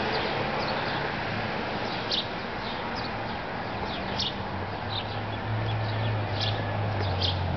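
Birds chirping in short, high calls every second or so over steady outdoor background noise, with a low steady hum that grows stronger in the second half.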